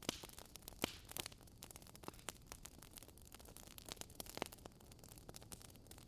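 Wood fire burning in a fireplace, with a soft steady hiss and sharp irregular crackles and pops from the burning logs, a few louder pops among them.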